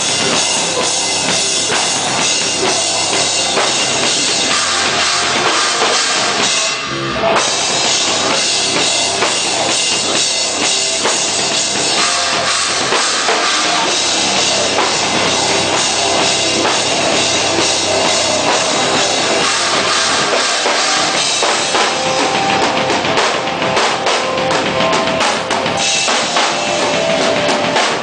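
Hardcore band playing live, loud and dense, with the drum kit driving it and a short break about seven seconds in.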